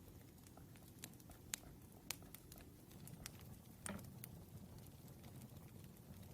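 Faint crackling wood fire: irregular sharp pops and snaps over a soft low rumble, one stronger crackle a little past the middle.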